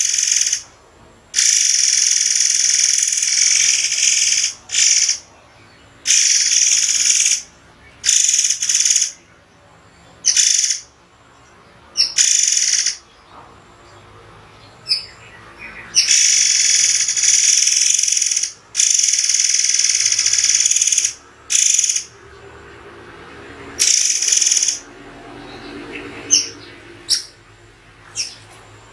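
A murai air singing in loud, harsh, hissy bursts high in pitch, each from a fraction of a second to a couple of seconds long, broken by short pauses: the sharp, paused 'shots' of song used as a masteran for training songbirds. A few short sharp notes come near the end.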